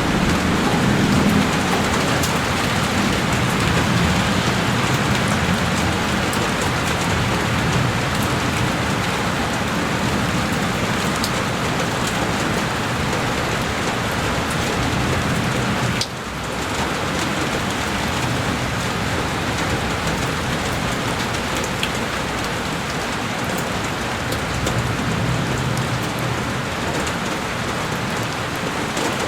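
Heavy rain falling steadily on a window pane, a dense even patter with a short dip in loudness about halfway through.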